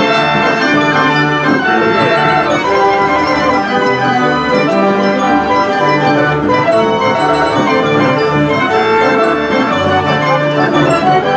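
Organ music playing a continuous tune with brass-like pipe tones, like a mechanical fairground organ.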